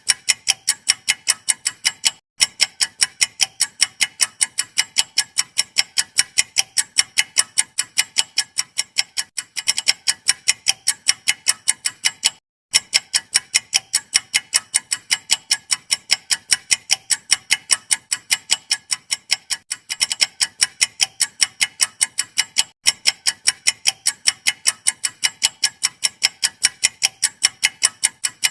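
Clock-ticking sound effect: a steady, sharp tick about three times a second, with a brief break roughly every ten seconds.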